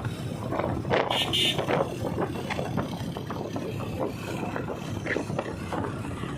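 Vehicle engines running amid crowd noise, with a short hiss about a second in.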